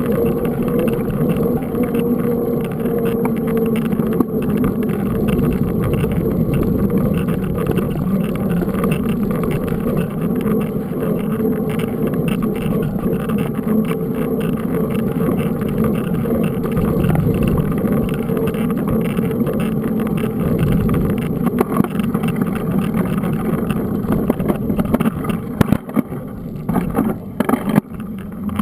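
Steady rushing and rumbling noise of a mountain bike being ridden, with tyres on the ground and wind on the microphone, and a few sharp knocks near the end.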